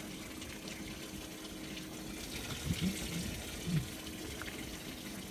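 Water running and splashing steadily, with a faint steady hum underneath and a few short low sounds a little past the middle.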